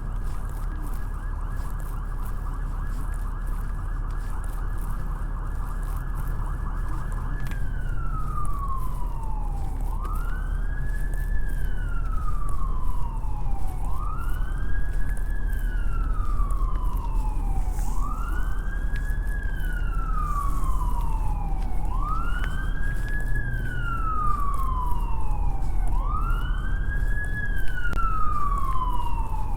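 Emergency vehicle siren, held on one high steady note for about the first seven seconds, then wailing in slow falls and rises about every four seconds, growing a little louder. Low city traffic rumble runs underneath.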